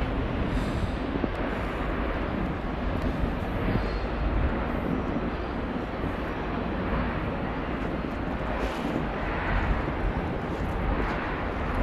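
Freight train rolling past, a steady rumble of cars on the rails.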